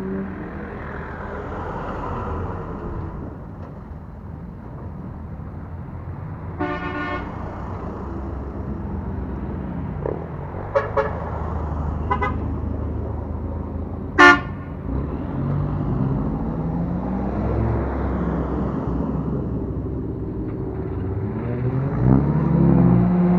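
Modified Japanese cars running and revving as they drive out, engine pitch rising and falling repeatedly. Several car-horn toots cut through: one short blast about seven seconds in, a few quick beeps around eleven to twelve seconds, and the loudest toot about fourteen seconds in.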